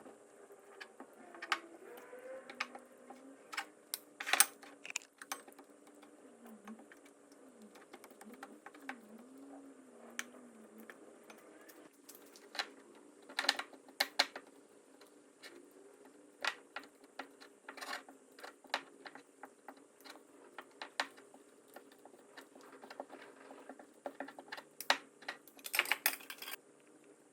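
Light, irregular clicks and taps of kitchen utensils and dishes being handled during food preparation, with a faint wavering tone in the first ten seconds.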